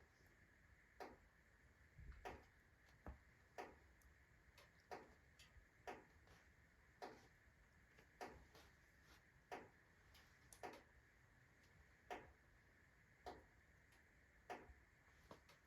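Faint wood fire in a stove: single sharp crackles and pops from a rotten, fungus-decayed log burning on hot embers, coming about once a second at uneven intervals over a low steady hiss.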